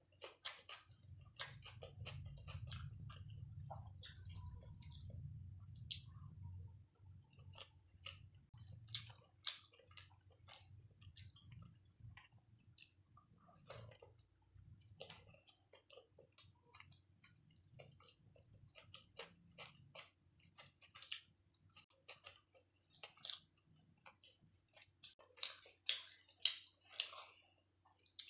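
Close-miked chewing and wet mouth sounds of a person eating chicken biryani: faint, irregular clicks and smacks. A low rumble runs under them for the first several seconds.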